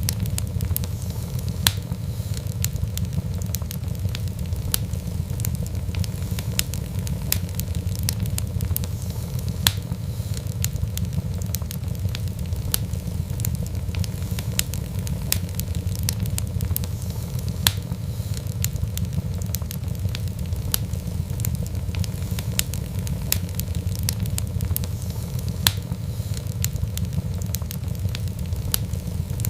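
Fireplace fire crackling: a steady low rumble of flames under frequent irregular sharp crackles, with a louder pop every several seconds.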